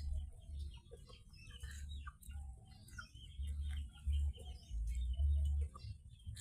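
Birds calling in scattered short chirps and clucks, possibly from chickens, over an on-and-off low rumble.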